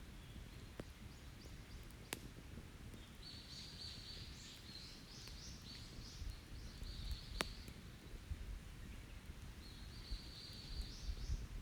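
Open wood campfire crackling, with a few sharp pops at about one, two and seven seconds in, while a songbird sings high rapid phrases for several seconds in the middle and again near the end.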